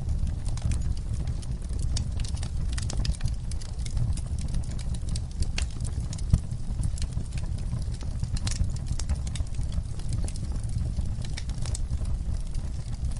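Wood fire crackling: many sharp pops and snaps at irregular intervals over a steady low rumble.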